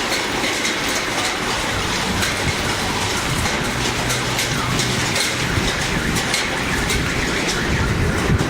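Large hailstones falling hard: a dense, steady clatter of many individual stone impacts over a continuous hiss.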